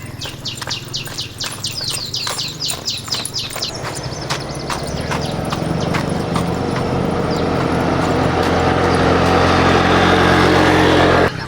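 A motor's steady drone grows louder through the second half and stops suddenly near the end. Before it there is a fast run of high, falling chirps, about four a second, with scattered sharp clicks throughout.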